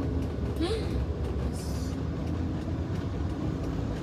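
Steady low rumble of a car's engine and tyres heard from inside the cabin while driving, with a brief higher sound about a second in.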